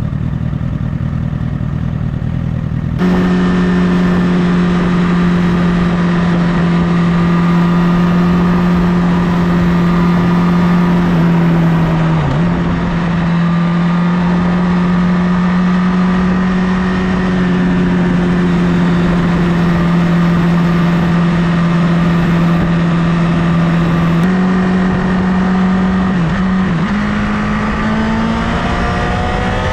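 Honda CBR1000RR inline-four sport bike engine running at steady high revs at highway speed, with wind rushing over the microphone. About three seconds in it jumps louder. Its pitch dips briefly twice, and near the end the revs climb as it accelerates.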